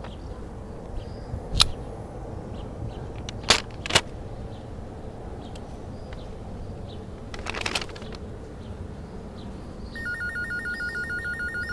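Quiet background ambience with a few sharp clicks. About ten seconds in, a phone starts ringing with a fast, warbling electronic ringtone.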